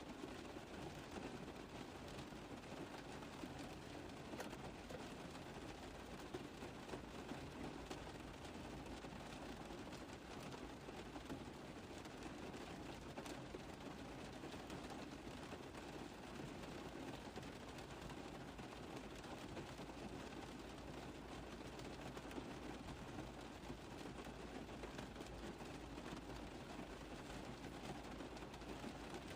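Steady rain falling on a car roof: a constant haze of many small drop taps with no change in intensity.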